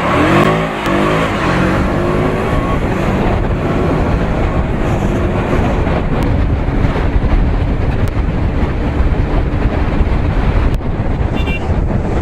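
KTM Duke 200 motorcycle riding along, its single-cylinder engine running under a steady rush of wind and road noise on the microphone, with the engine note shifting in the first couple of seconds.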